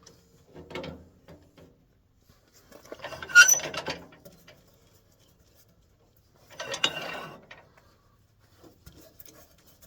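Metal tools being handled and set down: clinks and clatters in three short bursts, the loudest about three seconds in.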